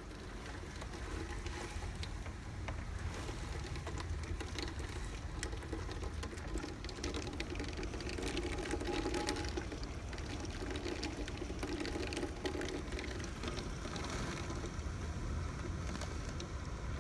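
Hurricane-force wind and driving rain of Hurricane Irma's eyewall: a steady rumbling rush with constant rain spatter, growing a little louder over the first few seconds.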